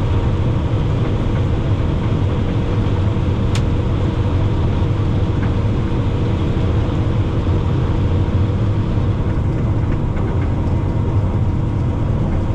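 Combine harvester running steadily while harvesting corn: a constant low drone with a few steady humming tones and a single brief click about three and a half seconds in.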